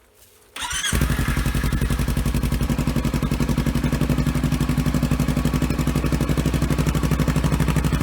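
2017 Kawasaki Versys X300's 296 cc parallel-twin engine, fitted with an aftermarket slip-on muffler, cranks briefly about half a second in and catches. It then settles into a steady, evenly pulsing idle with a throaty exhaust note.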